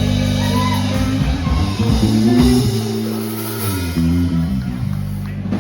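A live rock band with electric guitar, bass guitar and drums plays the closing bars of a song, holding its final chord, which cuts off near the end.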